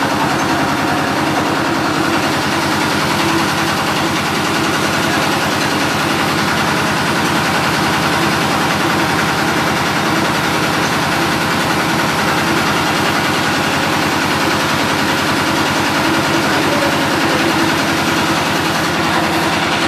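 A large engine idling steadily at an even, unchanging speed.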